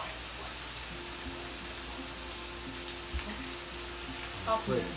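Seasoned chicken breasts sizzling on a hot flat-top griddle, a steady frying hiss.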